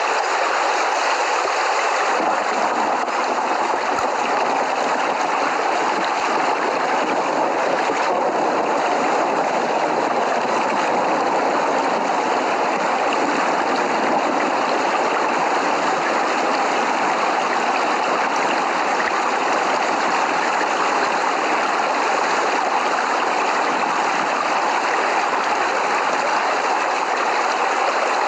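Steady heavy rain falling, a loud, even hiss that does not let up.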